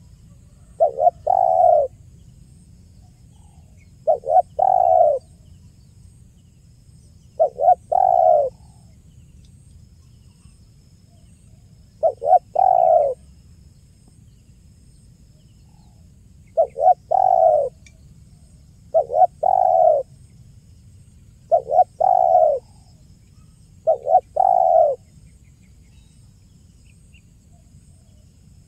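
Spotted dove cooing: eight short coo phrases, each a quick pair of notes running into a longer note, repeated every two to four seconds and stopping a few seconds before the end. A faint steady low rumble sits underneath.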